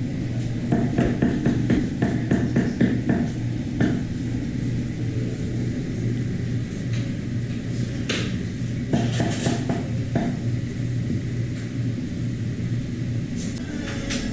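Restaurant background: a steady low hum, with a quick run of knocks and clatter in the first few seconds and a few more knocks about eight to ten seconds in.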